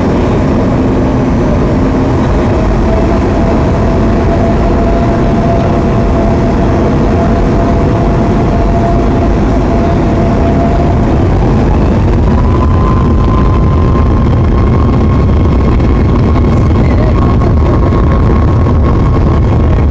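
Cabin noise inside a Boeing 737 MAX 8, its CFM LEAP-1B jet engines running with a loud, steady roar. About eleven seconds in, a thin engine tone rises and then holds at the higher pitch as the engines speed up.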